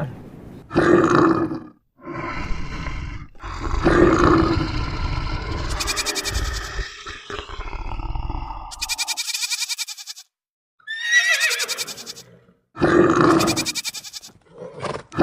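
A series of wild animal call sound effects, one after another. Most calls last about a second, and a longer one runs from about four to nine seconds in. A brief rapid, buzzing high rattle comes around nine seconds in.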